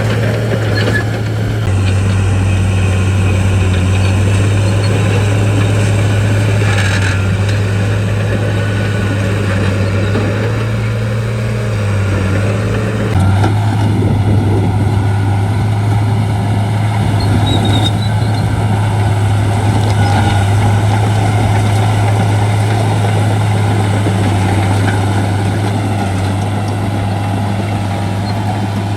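Shantui bulldozer's diesel engine running steadily under work, a low continuous drone whose note shifts slightly about halfway through.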